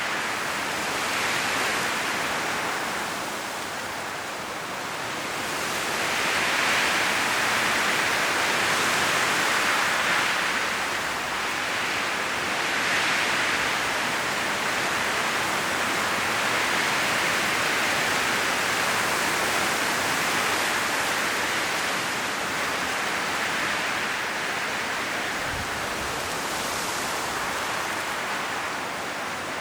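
Strong wind blowing through forest trees, the leaves rustling in a steady hiss that swells and eases in gusts every few seconds. A brief low thump near the end.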